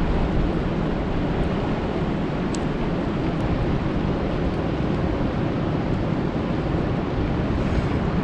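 Steady rain falling on a lake, a dense, even hiss that is heaviest in the low end.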